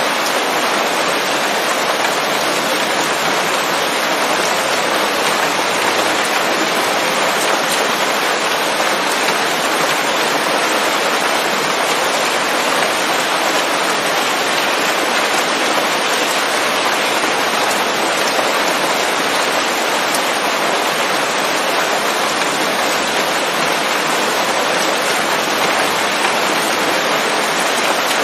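Steady rain falling on leaves, a dense even hiss of drops without breaks or thunder.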